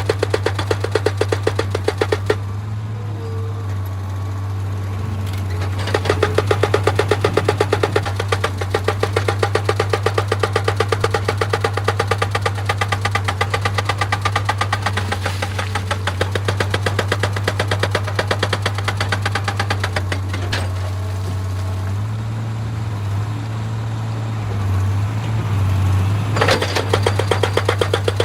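Excavator-mounted hydraulic rock breaker hammering stone in rapid, even blows over the machine's steady engine drone. The hammering pauses for a few seconds about two seconds in and again about three-quarters of the way through, leaving the engine running alone.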